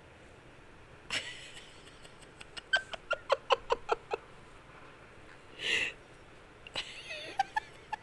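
Pet bird calling: a run of short, sharp chirps, a harsh squawk near the middle, then more chirps near the end.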